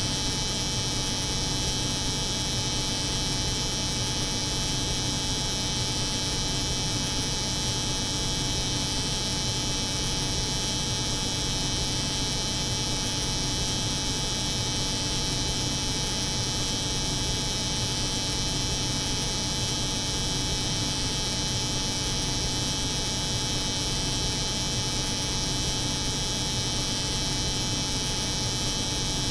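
Steady electric hair clipper buzz layered with the constant hum of a refrigerated cold room, unchanging throughout.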